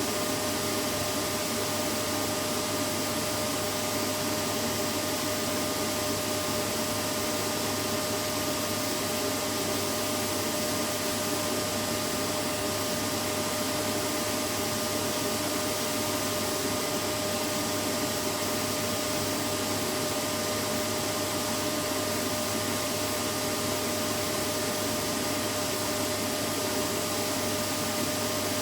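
Vacuum cleaner running steadily, a constant rushing noise with a steady hum, unchanging throughout.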